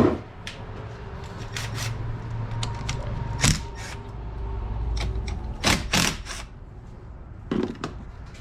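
Hand tools working on a car battery's 10 mm terminal and hold-down fasteners: scattered sharp metal clicks and knocks, a few of them louder, at irregular intervals.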